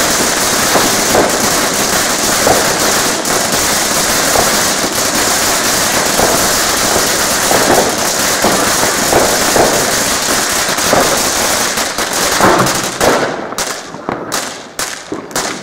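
Firecrackers going off in a rapid, unbroken run, so many bangs that they blur into one continuous crackle. About thirteen seconds in it thins out to a handful of separate sharp bangs.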